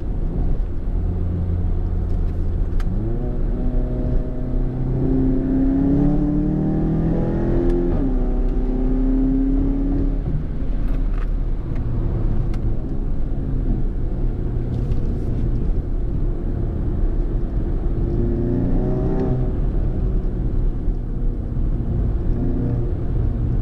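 VW MK7 GTI's turbocharged four-cylinder, running through a catless downpipe with a Cobb Stage 3 tune, droning at a steady cruise. About three seconds in it pulls hard with the pitch climbing, dips briefly near eight seconds and climbs again, then settles back. It rises once more for a moment about nineteen seconds in.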